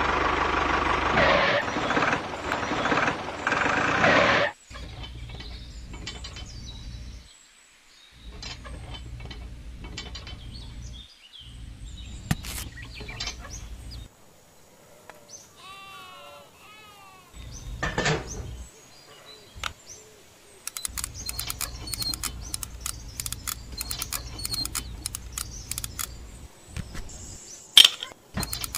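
Music for the first few seconds, then a low hum that comes and goes, a short run of bird chirps about halfway through, and scattered clicks and taps as a small plastic cultivator is fitted to a toy tractor's hitch, the loudest click near the end.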